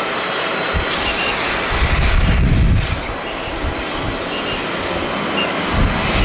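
Jet airliner engine noise as an aircraft takes off or lands, with gusts of strong wind buffeting the microphone in low rumbling bursts.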